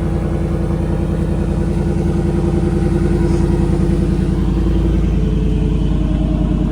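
Dirt bike engine idling steadily, a rapid even firing beat.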